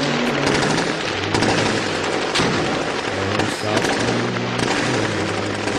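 Rapid machine-gun fire, dense and continuous, laid over the slow instrumental accompaniment of an Irish ballad with low held notes.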